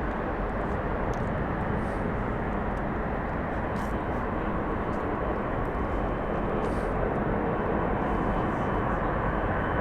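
Jet engines of a large airliner, a steady roar that grows slightly louder over the last few seconds.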